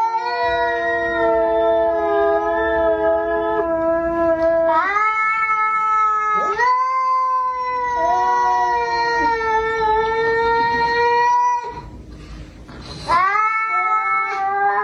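A cat yowling (caterwauling) in long drawn-out calls, each held for several seconds with slight wavers and upward slides in pitch. The calls break off about twelve seconds in and start again a second or so later.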